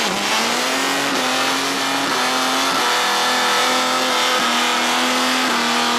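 Chevrolet Opala drag car doing a burnout: its engine revs up right at the start and is then held at high, nearly steady revs, with a few small steps in pitch, while the rear tyres spin.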